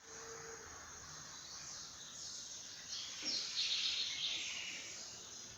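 Birds chirping over steady outdoor background noise, the chirping loudest from about three to four and a half seconds in.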